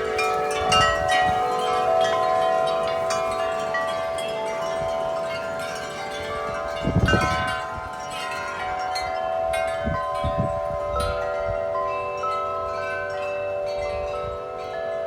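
Large metal tube wind chimes ringing nonstop in strong wind, many overlapping long-ringing tones struck again and again. A brief low rumble about seven seconds in, with smaller ones around ten seconds.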